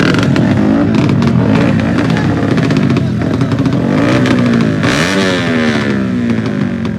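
Motorcycle engines running hard, with the engine pitch dipping about four seconds in and then climbing sharply as one revs up.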